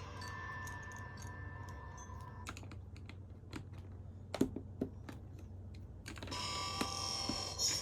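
Small hard plastic LEGO pieces clicking and tapping as they are handled and pressed together: a scatter of short, sharp clicks, several close together in the middle stretch.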